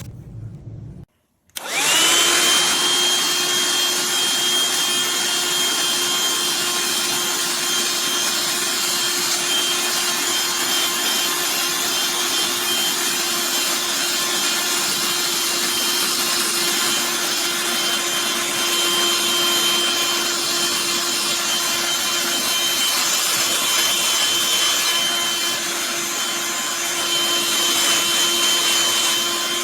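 Black+Decker Dustbuster cordless handheld vacuum switched on about a second and a half in, its motor spinning up to a steady high whine over a rushing hiss of suction and running on.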